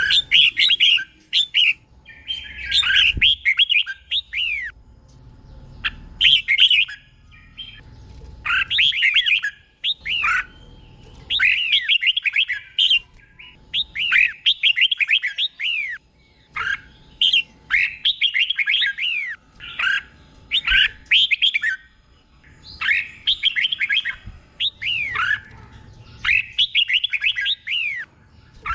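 Red-whiskered bulbul singing: short phrases of quick sweeping whistled notes, each about a second long, repeated with brief pauses between them, some coming in pairs.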